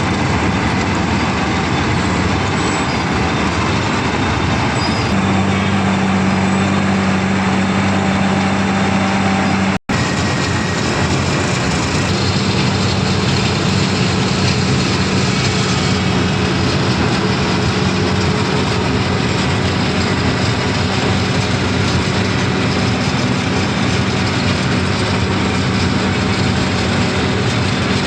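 Milling machinery running steadily: a loud, even mechanical noise over a constant low hum, with a momentary dropout about ten seconds in.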